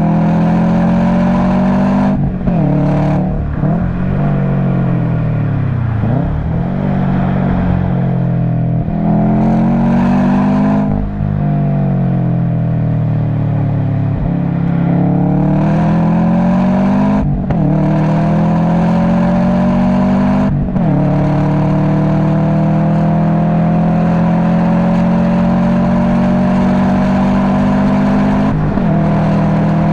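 Subaru WRX STI boxer engine through an Invidia Q300 exhaust, driven hard on track. The revs climb with short breaks at each gear change, fall away and pick up again several times, then pull in one long climb through the second half.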